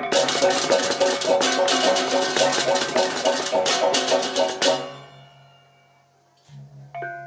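Balinese gamelan playing fast, dense metallic keyed notes with cymbal crashes; it stops about five seconds in and a low gong-like tone rings on alone. Near the end a few metallophone notes start again.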